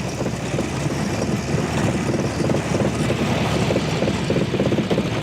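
Engine of a small all-wheel-drive platform running hard under throttle, a fast steady pulsing, as it strains to drive its tractor-track-shoe wheels forward through deep mud.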